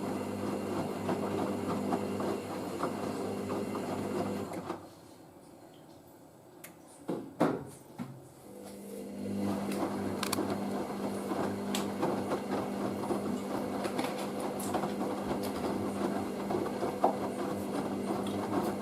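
Hoover SIX AAA160 washing machine running between its final rinse and its final spin: a steady motor hum with a rattly texture. The hum stops about five seconds in, a few clunks sound around seven seconds, and the hum starts again about two seconds later and runs on.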